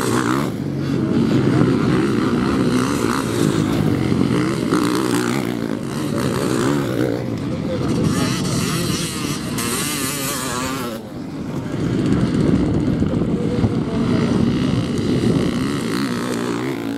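Motocross motorcycle engines running and revving on the track, the pitch rising and falling, with one bike louder and closer from about eight to eleven seconds in.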